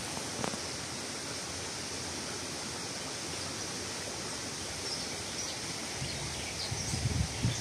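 A stream flowing steadily, with a few faint high bird chirps in the second half. Some low rumbling knocks near the end.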